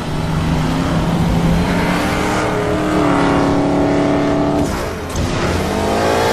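Heavy engines of trucks and a supercharged car in a film sound mix, running loud with a deep rumble. The engine note dips briefly about five seconds in, then revs up again near the end.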